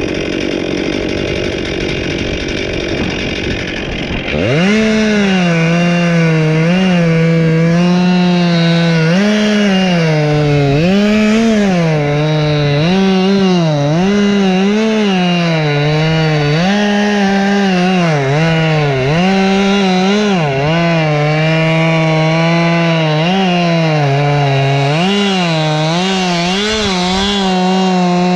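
Chainsaw revving up to full throttle about four seconds in, then cutting wood, its high engine note dipping under load and picking back up again and again as the chain bites. The first few seconds are a rougher, noisier sound.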